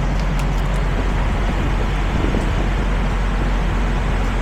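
Diesel semi-truck engine idling with a steady hum, under a steady rushing noise, with a few light clicks about half a second in.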